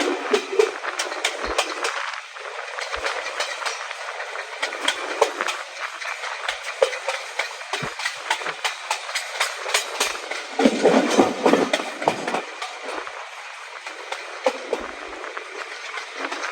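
Train running along the track: steady rolling noise with many sharp wheel-on-rail clicks, growing louder for a couple of seconds about eleven seconds in.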